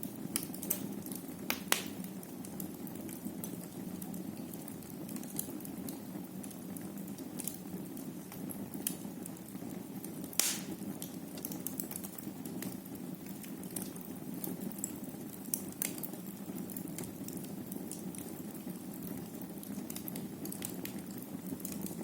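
Wood fire burning in a fireplace, a steady low rush of flames with frequent crackles and pops, the loudest about two seconds in and again about ten seconds in.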